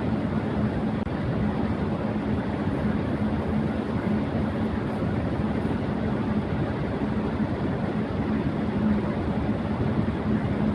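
Electric fan running at high speed: a steady rush of air with a constant low hum that does not change.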